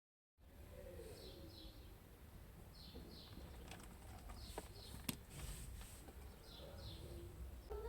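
Faint background ambience with a bird calling a short two-note chirp, repeated about every second and a half. A few sharp clicks fall around the middle, the loudest about five seconds in.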